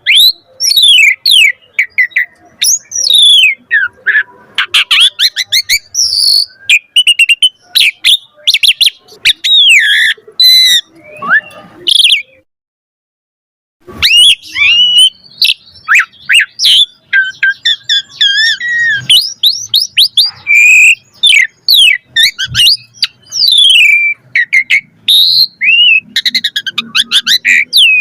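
Asian pied starling (jalak suren) singing a long, varied song of whistles, sliding notes, harsh squawks and rapid trills. The song breaks off into silence for about a second near the middle, then resumes.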